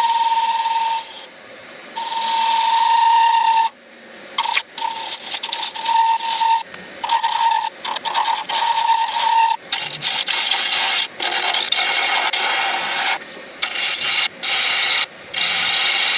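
Turning tool cutting a spinning acrylic pen blank on a lathe: a scraping cut that comes in repeated passes of a second or two with short breaks, a steady high tone sounding through the longer cuts in the first half. The blank is being trued from an oblong shape back to round.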